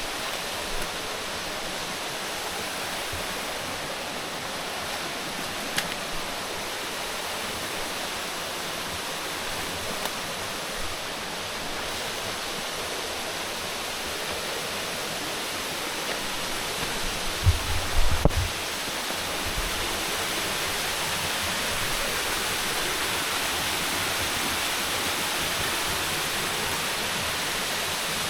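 Steady rush of water from a mountain stream or waterfall, growing slightly louder in the last third. A few short low thumps come about two-thirds of the way through.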